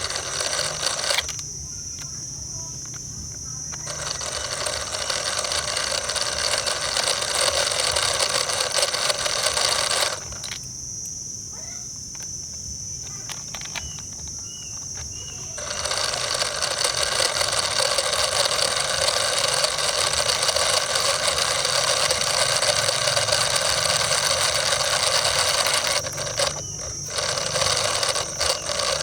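A small motor running in spells with a steady high whine. It cuts out twice for a few seconds and starts up again, then dips briefly near the end.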